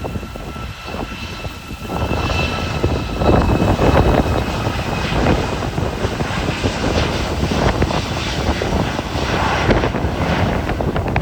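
Boeing 737 MAX's CFM LEAP-1B turbofan engines running: a steady high whine that gives way to a louder, dense rumble about two seconds in.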